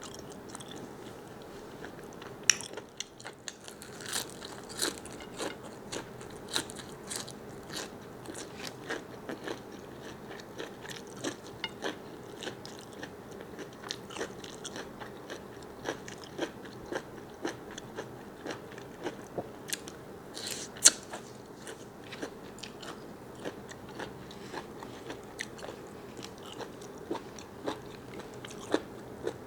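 Close-up eating sounds of a person chewing and biting large squid: a steady run of short wet clicks and smacks, about one or two a second, with a louder one a couple of seconds in and another about two-thirds through.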